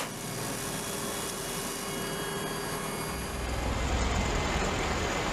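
Aircraft engines running steadily, a continuous rushing drone with faint steady whines, and a deeper rumble building from about three seconds in.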